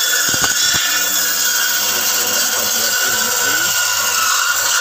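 Electric saw with a toothed carbide blade running at speed and cutting through bone, a loud high-pitched grinding hiss with a few sharp knocks in the first second.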